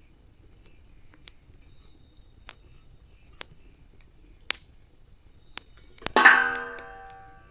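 Campfire burning, with sharp, sparse wood pops about once a second. About six seconds in comes a loud hollow knock that rings and dies away over about a second.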